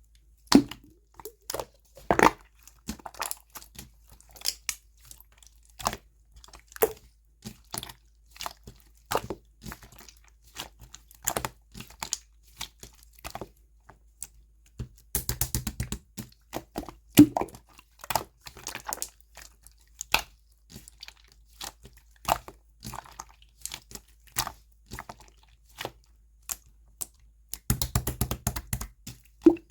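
Slime being squeezed and pressed by hand, giving scattered sharp crackling pops and clicks. Twice, about halfway and near the end, there is a quick run of rapid pops.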